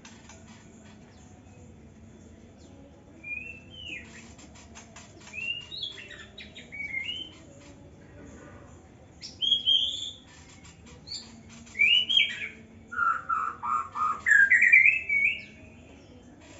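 Young white-rumped shama singing: short bursts of varied gliding whistled phrases with scattered clicks between them, starting about three seconds in. The loudest phrase, a quick rising run of notes, comes near the end.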